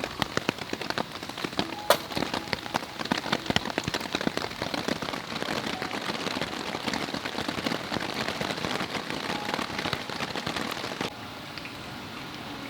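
Wood campfire crackling, with many sharp pops over a dense hiss; it cuts off abruptly near the end, leaving a quieter, steadier background.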